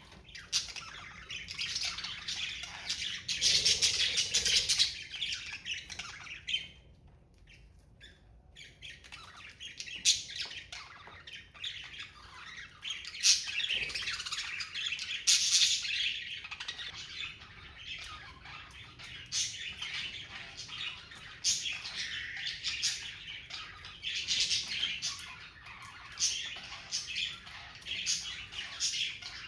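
Budgerigars chattering and chirping in a near-constant stream of short, quick calls, with a brief lull about seven seconds in.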